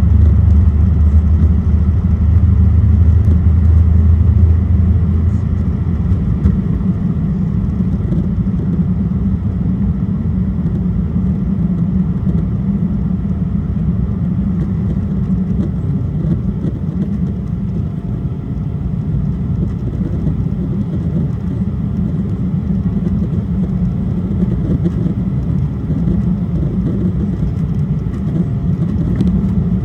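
Cabin noise of an Embraer E175 jet during takeoff: a loud, steady rumble from its twin turbofans and the airflow. A deeper rumble is strong for the first several seconds, then drops away about six seconds in.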